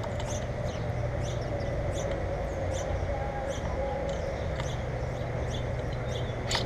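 Small birds chirping, many short high notes repeating quickly one after another, over a steady low background hum.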